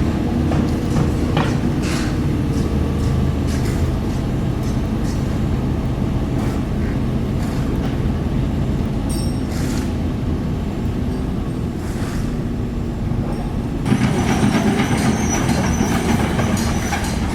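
Heavy diesel construction machinery running steadily, with scattered metal clanks. About fourteen seconds in it grows louder, with clattering and a high squeal like steel tracks or parts grinding.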